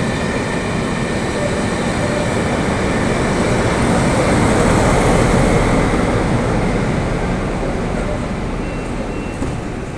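A train of passenger coaches running fast through a station: a steady rush and rumble of wheels on the rails that swells to its loudest about halfway through and eases off near the end as the tail of the train goes by.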